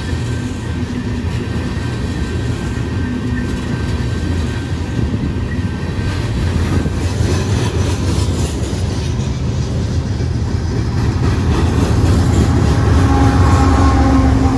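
Freight train passing close by: a steady rumble and clatter of tank cars and coil cars rolling over the rails. The sound grows louder near the end as Union Pacific diesel locomotives come by with a steady engine hum.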